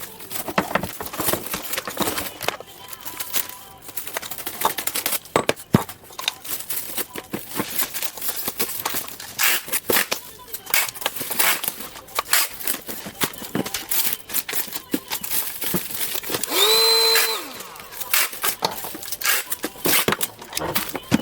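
Irregular clicks, taps and plastic handling noises from a mini handheld vacuum being handled. About three-quarters of the way through, its small electric motor whines for about a second, rising in pitch as it starts and falling as it stops.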